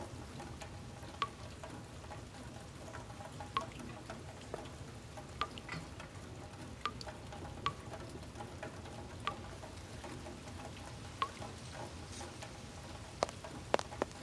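Steady hiss of rain on a metal barn roof, with single water drips from a roof leak landing at irregular moments, roughly one every second or so, each a sharp tick.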